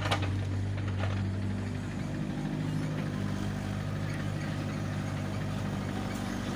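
Diesel engine of a backhoe loader or tractor running steadily at low revs, a deep, even drone.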